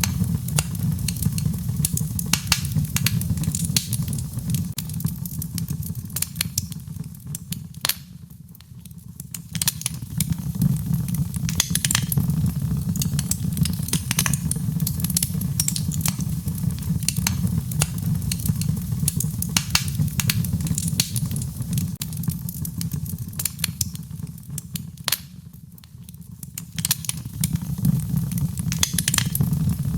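Wood fire burning in a fireplace: many sharp crackles and pops over a steady low rumble of the flames. The sound dips in loudness twice, briefly.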